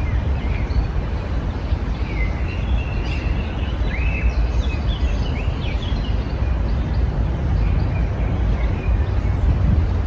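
Small songbirds chirping and trilling in short, scattered phrases, busiest in the middle, over a steady low rumble of background noise.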